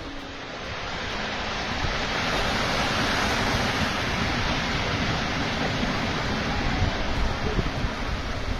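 Cliff collapsing into the sea: a steady rushing noise of falling rock and surf that swells over the first couple of seconds and then holds.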